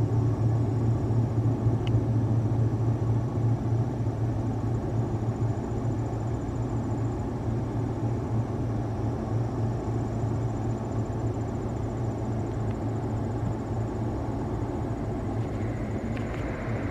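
Diesel locomotives of a Buffalo & Pittsburgh freight train running with a steady low rumble and drone.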